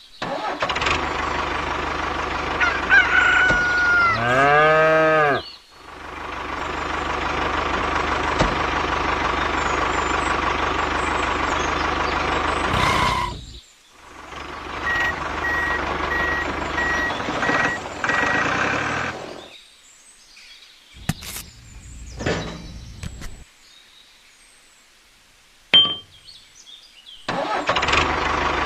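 Tractor engine running in stretches, stopping and starting again several times, with a chicken call in the first few seconds and a run of short even beeps in the middle; between about 19 and 27 seconds only scattered clicks.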